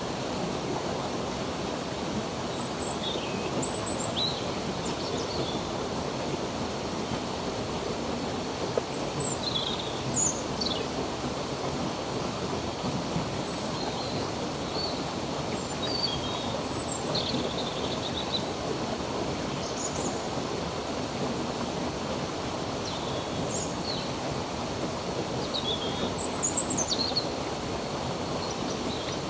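Steady rush of a flowing stream, with birds chirping in short, scattered calls over it.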